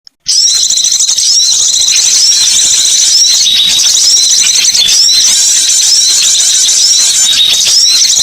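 Loud, dense twittering of many small birds: high-pitched chirps repeating and overlapping without pause, as in a bird-lure recording. A brief moment of silence right at the start.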